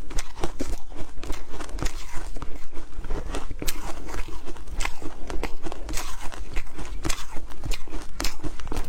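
Ice being bitten and crunched between the teeth: a rapid, irregular run of sharp crunches, several a second.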